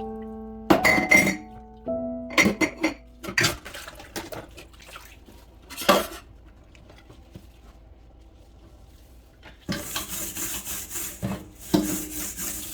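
Dishes and cutlery clinking and clattering as they are handled and washed, with several sharp knocks in the first six seconds. From about ten seconds in, tap water runs with a steady hiss.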